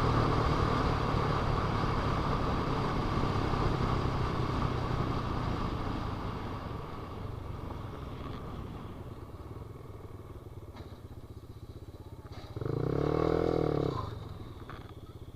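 Motorcycle engine running steadily, loud at first and growing quieter after about six seconds. About twelve and a half seconds in, a short rev rises and falls in pitch, lasting about a second and a half.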